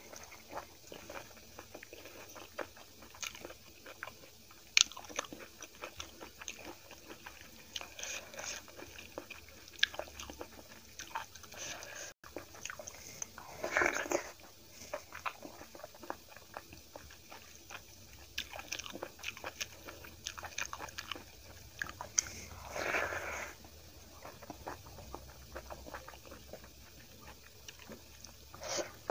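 Close-miked chewing and crunching of rice and curry eaten by hand, with many small wet mouth clicks. Two longer, louder noisy sounds about 14 and 23 seconds in.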